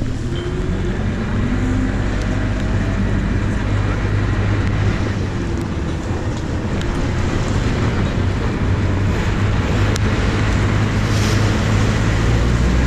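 Tour boat's engine running steadily, a low, even hum.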